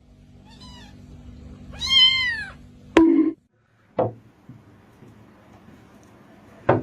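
Domestic cat meowing: a faint short meow, then a loud, drawn-out meow that rises and falls about two seconds in. Sharp knocks follow, one about three seconds in and another a second later.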